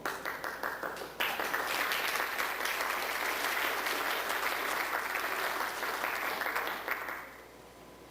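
Audience applauding: a few scattered claps, swelling into full applause about a second in, then dying away near the end.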